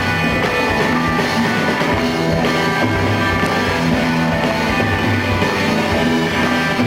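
Live rock band playing an instrumental passage on guitars and drums, with no singing.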